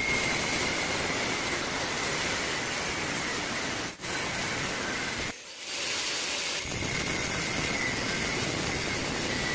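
Homemade 12V mini breaker driven by a 775 DC motor running, a steady noisy rattle and hiss. It cuts out briefly about four seconds in, then stops for about a second around five and a half seconds in before running again.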